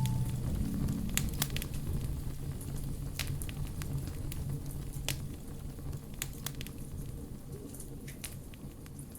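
Wood fire crackling in a fireplace, with scattered sharp pops and snaps.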